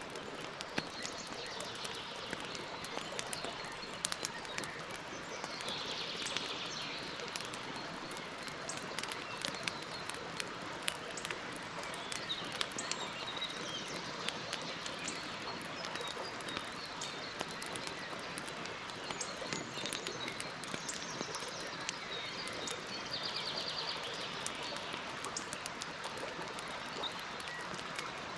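Campfire crackling, with frequent small pops and snaps over a steady hiss. Birds chirp faintly twice, about six seconds in and again a few seconds before the end.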